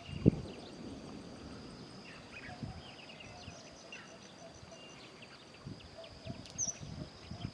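Scattered faint bird chirps and one short high call near the end, over a steady high-pitched whine, with a dull thump just after the start and a few softer thumps later.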